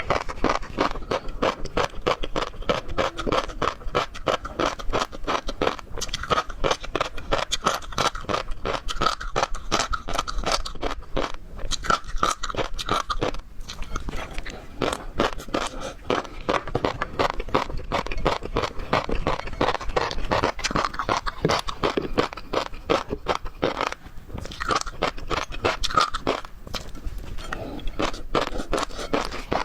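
Close-miked seafood eating: continuous crunching and chewing, a dense run of quick wet crackles and clicks, with brief pauses about six, fourteen and twenty-four seconds in.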